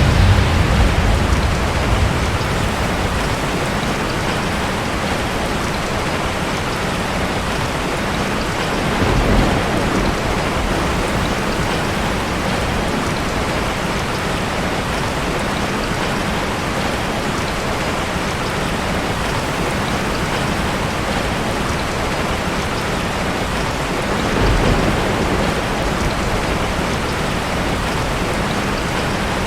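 Steady heavy rain, with low rumbles of thunder: a louder one fading away at the start, then softer rumbles about nine seconds in and again near twenty-five seconds.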